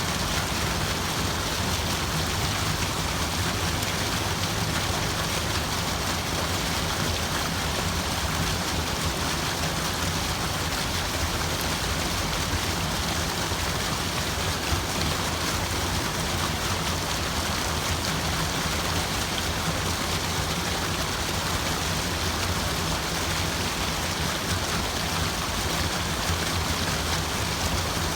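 Running water making a steady, even rushing sound with no breaks or changes, used as a white-noise water ambience.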